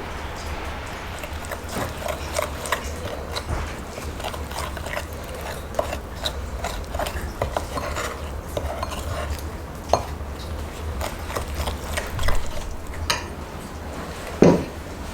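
Utensils stirring and scraping in a bowl with small irregular clinks, and a louder knock near the end.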